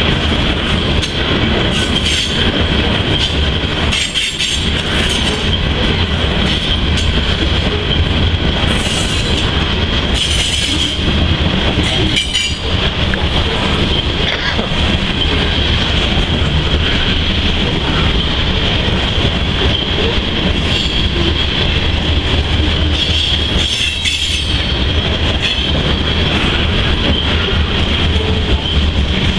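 Freight train of covered hopper cars rolling past close by: a steady rumble of steel wheels on rail with a continuous high-pitched wheel squeal and scattered clatter from the cars.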